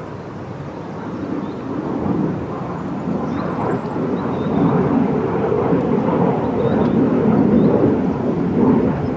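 A loud, low rushing rumble that builds over the first few seconds and then holds, with faint high chirps above it.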